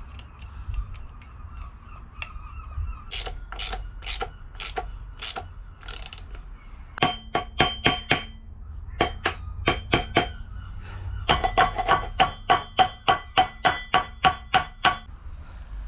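Ratchet spanner clicking on a motorbike's rear end, each click with a short metallic ring: a few slow clicks at first, then quicker, louder runs of about four clicks a second in the second half.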